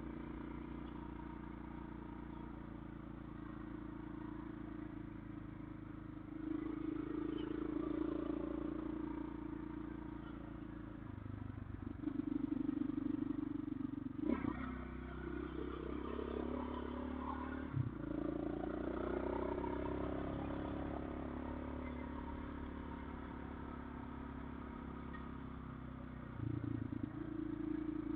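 Motorcycle engine running while riding off-road, its note swelling and easing with the throttle several times, with two sharp knocks about halfway through.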